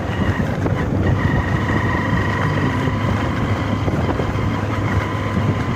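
A vehicle engine running steadily, with faint constant high tones above its low hum.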